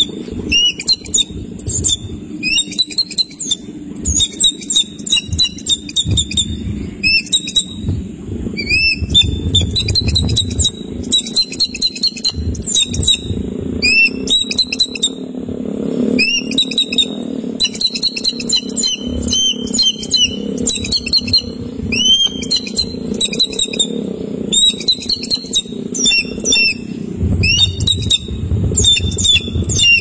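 Small birds chirping rapidly and almost without pause, a dense run of short, high, sweeping calls, over a steady low hum.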